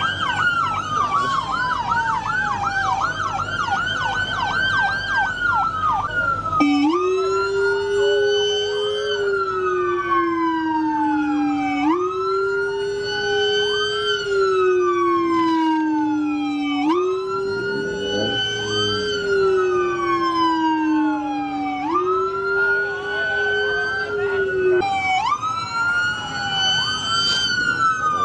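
Police car sirens blasting together to order the crowd out of the lot. For about the first six seconds a fast yelp runs over a slow wail; then two sirens wail, one high and one lower, each rising and falling about every five seconds.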